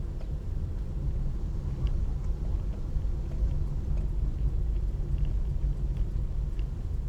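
A steady low rumble of road-vehicle noise, with a few faint ticks.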